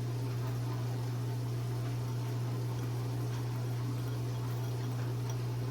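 Room tone: a steady low hum with a faint hiss, nothing else happening.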